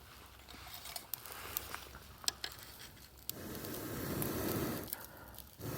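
Campfire crackling with scattered sharp pops over the first three seconds, then a rough rushing noise that rises about three seconds in and lasts over a second, and starts again near the end.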